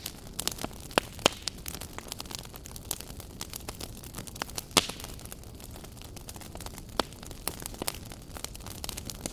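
Wood fire burning in a fireplace: a steady low rush of flames with irregular sharp crackles and pops, the loudest a handful of single snaps scattered through.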